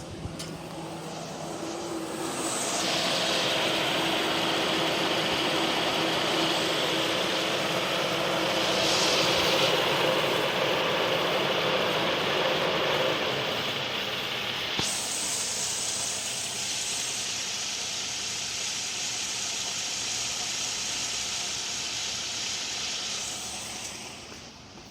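2006 Suzuki Grand Vitara engine running with a steady hiss over it, the engine shaking after a Sea Foam cleaner treatment.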